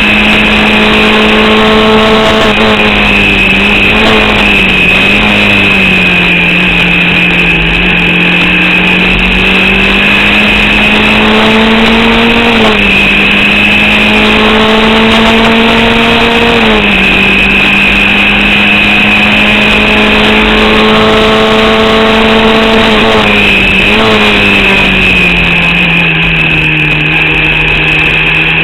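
Formula Vauxhall single-seater's four-cylinder 8-valve engine running hard, heard onboard at race speed, with a steady high whine over it. Its pitch climbs slowly and drops sharply a few times. The engine is misfiring and losing power to an alternator/battery fault, holding it to about 4500 rpm.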